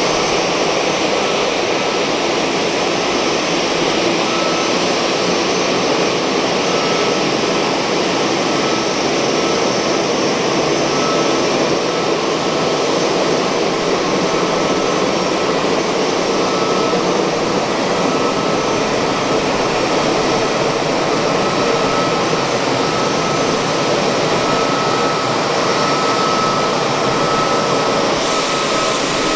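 Jet noise from an Airbus A320-214: a steady, loud rush with a thin, constant high whine through it.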